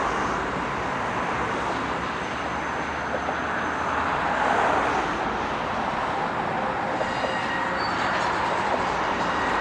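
A train rolling along the track, giving a steady noise of wheels on rails, with a few faint high tones in the second half.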